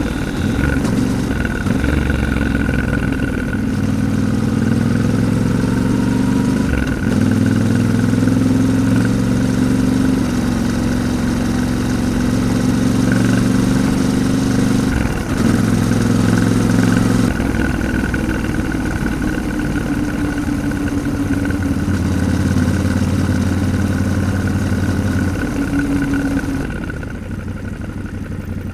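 Yamaha Ténéré 700's 689 cc parallel-twin engine running under way, its note holding steady and then stepping up or down several times with throttle and gear changes. Near the end it drops to a quieter, lower note as the bike eases off.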